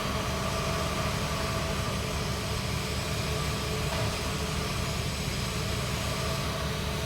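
Pipe welding on a 3-inch schedule 80 pipe: the arc's steady hiss and crackle over a low, constant machine hum, running without a break.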